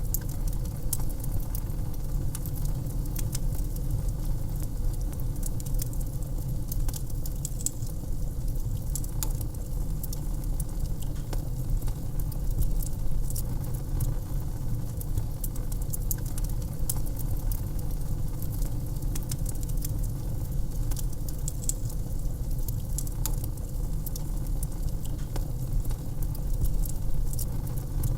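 Wood fire crackling in a fireplace: frequent sharp snaps and pops, irregularly spaced, over a steady low rumble.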